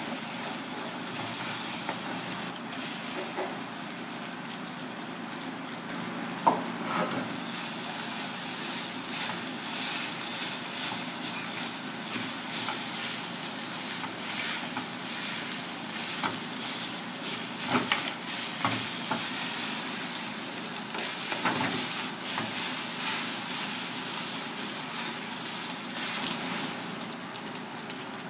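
Egg and rice frying in a small black pan: a steady sizzle, with a wooden spatula stirring and scraping through it and a few sharp knocks, the loudest about six seconds in.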